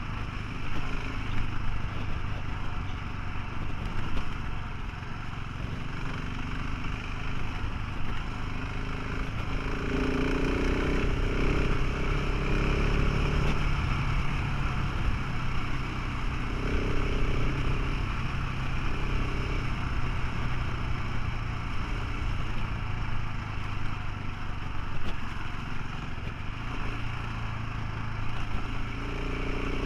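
Motorcycle engine running while being ridden, over a steady rush of noise. The engine note shifts and rises about a third of the way in, then settles again.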